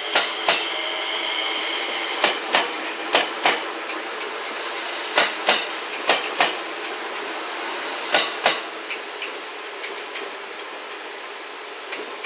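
JR West 227 series three-car electric train rolling into the station. Its wheels clack over the track in pairs as each two-axle bogie passes, six pairs in all, over a steady running hum. The clacks stop after about eight and a half seconds, and only a few faint clicks follow.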